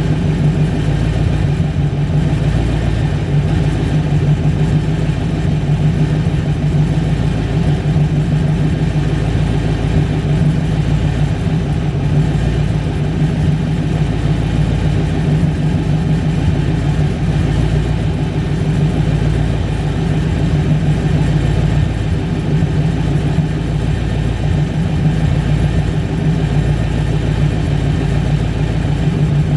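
Small-block Chevy V8 with a Holley carburetor running steadily at idle.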